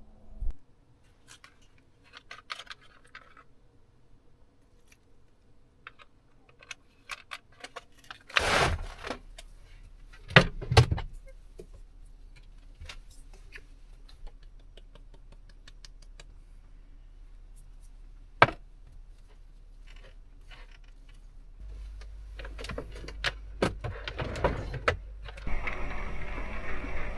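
Cooking gear being handled in a small space: scattered clinks, clicks and knocks, a few of them louder. Near the end a steady hiss swells up.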